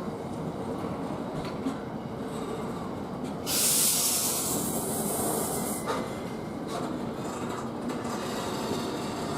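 Freightliner Class 66 diesel freight train with its container wagons, rumbling steadily at the platform. About three and a half seconds in there is a loud hiss of air lasting a little over two seconds, typical of the air brakes.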